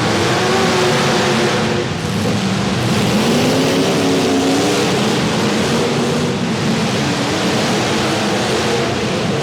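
Several demolition derby cars' engines running and revving at once over a dense wash of noise; one engine's pitch rises and falls about three seconds in.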